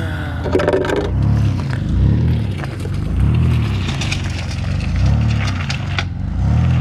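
Vehicle engine running slowly, its low drone swelling and dipping in pitch about once a second as the vehicle creeps forward.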